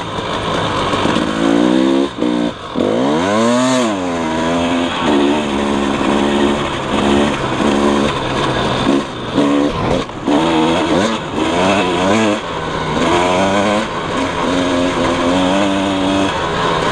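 KTM 300 EXC two-stroke single-cylinder dirt bike engine under way, revving up and down repeatedly as it is ridden over sand, with a few brief drops in revs where the throttle is rolled off.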